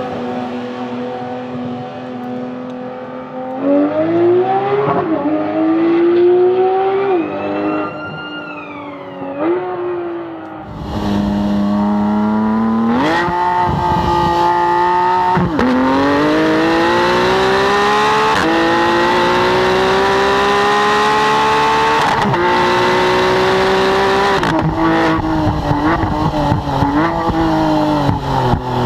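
Porsche 991 GT3's naturally aspirated flat-six through a Cup exhaust. It runs steadily, then revs up with a few gear changes. From about eleven seconds in it is heard close at the exhaust and gets louder, accelerating hard, its pitch rising through long pulls and dropping sharply at each upshift or lift.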